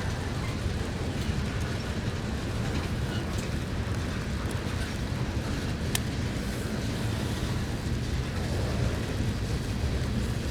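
Train passing on the line, a steady low rumble with a sharp click about six seconds in.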